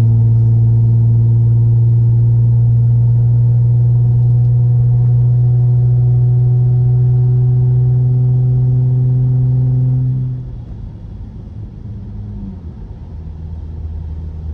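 Straight-piped SXT's engine droning loudly at steady revs, heard from inside the car. About ten seconds in, the drone falls sharply in loudness and pitch and settles into a quieter, lower drone as the car comes off the throttle.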